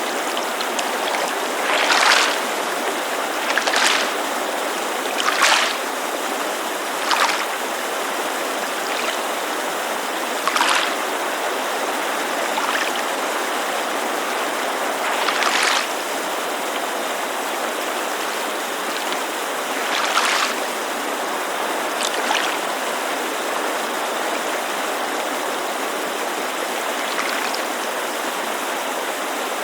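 Steady rushing noise of a mountain creek, with small waves lapping against a lakeshore in brief, irregular splashes every few seconds, more often in the first half.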